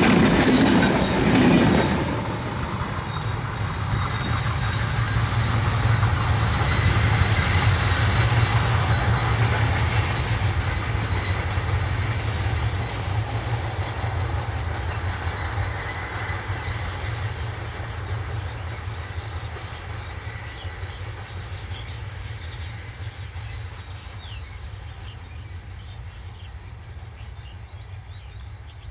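Intercity express train's PT INKA coaches rushing past on broad-gauge track, wheels loud on the rails, until the last coach clears about two seconds in. The train's rumble then fades slowly as it runs away into the distance.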